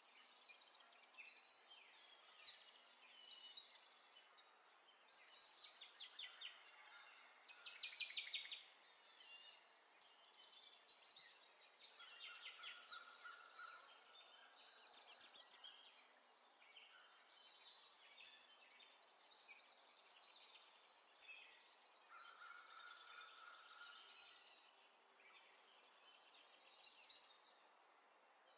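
Birds singing: high, fast trills and chirps, one phrase after another every second or two.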